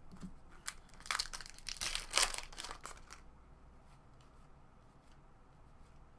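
Wrapper of a pack of baseball cards crinkling and tearing for about two seconds, followed by a few faint clicks of cards being handled.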